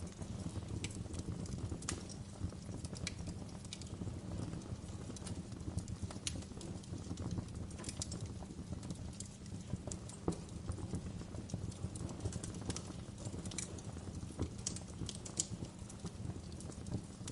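Wood fire crackling in a fireplace: irregular sharp pops and snaps over a steady low rumble, mixed with gentle rain.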